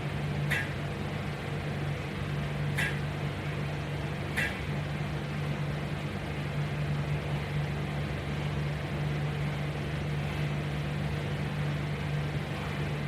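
A steady low mechanical hum, with three short, sharp sounds in the first five seconds.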